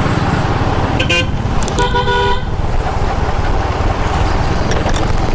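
A vehicle horn tooting twice, a short beep about a second in and a longer one just after, from a driver who has been honking at the rider, over the steady rumble of the motorbike's engine and wind while riding.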